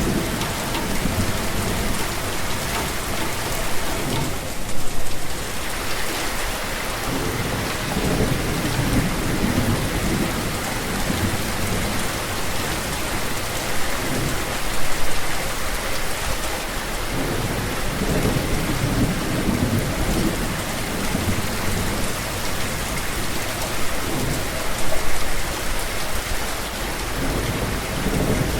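Steady rain, with low thunder rumbles swelling and fading underneath. There are three brief louder peaks about ten seconds apart.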